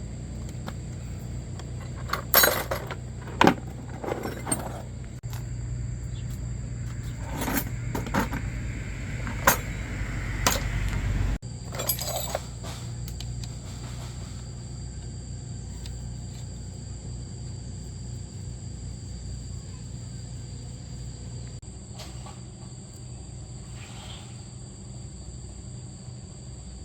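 Metal parts and tools clinking and knocking against each other in scattered single strikes, several in the first half and a few later, over a steady low hum.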